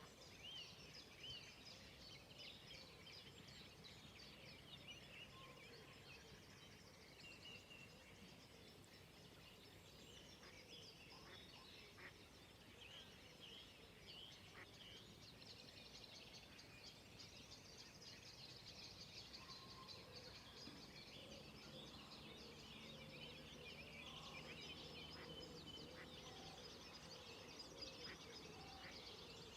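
Dawn chorus: many songbirds singing at once, a faint, busy mix of chirps and trills that grows denser in the second half. A faint steady low hum joins about two-thirds of the way through.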